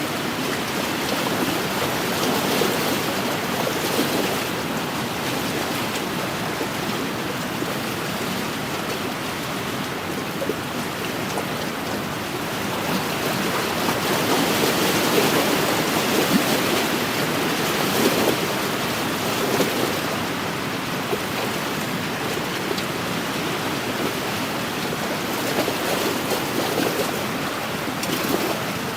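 Wind-driven waves lapping and washing against an inland lakeshore: a continuous rushing water noise that swells and eases unevenly, with wind blowing over it.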